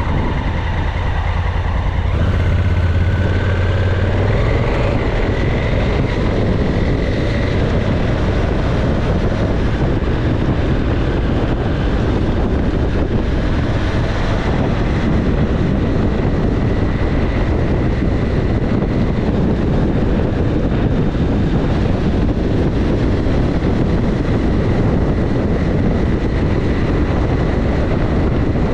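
Motorcycle under way: a steady engine note under heavy wind rush on the microphone. The engine note climbs about four seconds in, then is buried under the steady wind and road noise.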